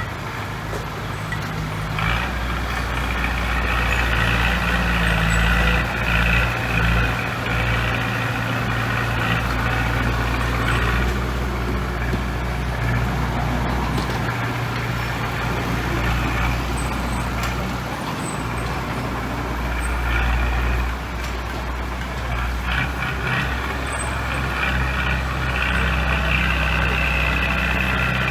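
Heavy diesel earthmoving machinery running under load: a continuous low engine drone that grows louder about two seconds in, with a steady higher whine over it.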